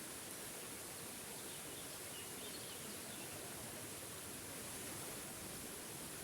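Small forest waterfall rushing steadily, an even unbroken wash of falling water.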